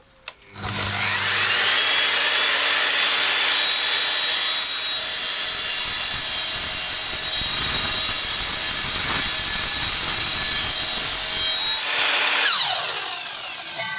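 Sliding mitre saw starting up with a rising whine, then cutting through wood for about ten seconds. Near the end it is switched off and the whine falls as the blade spins down.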